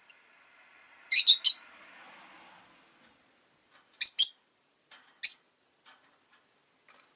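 Rosy-faced lovebirds giving short, shrill chirps in quick clusters: three about a second in, two more about four seconds in, and a single one shortly after, with a few faint ticks between.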